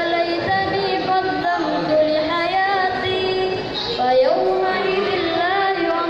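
A young student's high voice chanting a Quran recitation in the melodic tilawah style, holding long notes with ornamented turns and slides in pitch.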